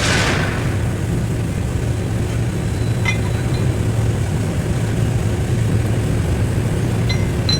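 A steady low mechanical drone, with a brief hiss right at the start and a few faint short chirps about three seconds in and again near the end.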